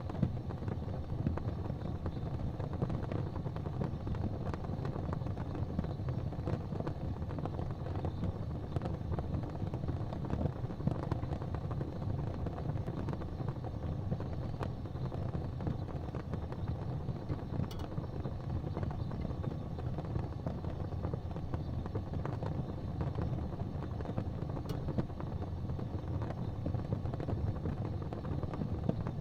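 Fire crackling in a fireplace over a steady low rumble, with small irregular pops and a couple of sharper snaps.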